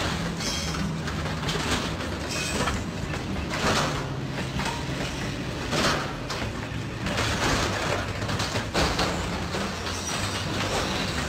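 Freight train wagons rolling past and scraping along a small truck's cab, with repeated crunching and grinding of metal over the train's steady low rumble.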